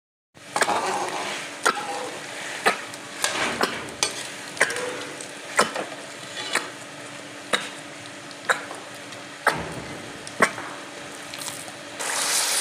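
Chicken and onions frying in ghee in a cooking pot, with a steady sizzle, while a spoon stirs them and knocks against the pot about once a second. The sizzle gets louder near the end.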